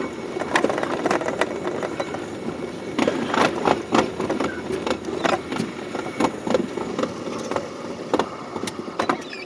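Electric commuter train running, a steady rumble with many irregular clicks and knocks.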